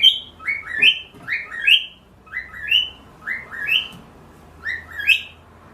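Cockatiel whistling a short two-note phrase over and over, a lower note rising into a higher one, about once a second.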